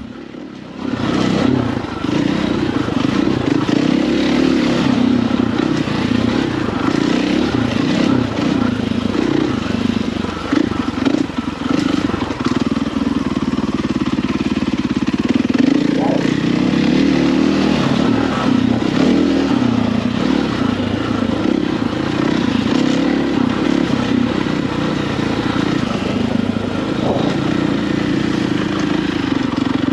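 Husqvarna FE450 dirt bike's single-cylinder four-stroke engine running under way, the throttle rising and falling, coming up loud about a second in.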